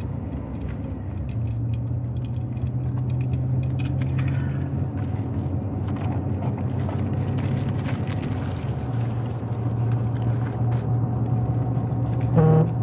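Steady engine and road noise of a vehicle driving, heard from inside the cabin as a low hum. Near the end comes a brief, louder pitched sound.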